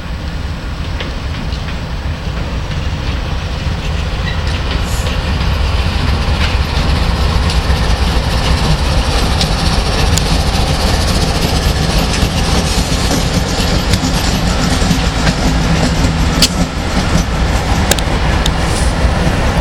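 Union Pacific train rolling past at close range: a steady rumble of cars with scattered wheel clicks and clacks over the rail joints, growing louder over the first several seconds and then holding.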